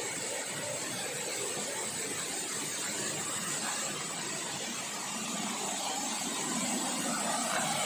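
Steady rush of a forest stream flowing toward a waterfall, an even wash of water noise with a thin high hiss running above it.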